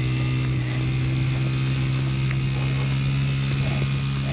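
Motorcycle engine running steadily, with an even low note that does not rise or fall.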